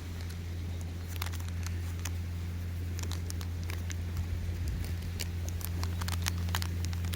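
Campfire crackling: irregular sharp pops and snaps, coming more thickly in the second half, over a steady low rumble.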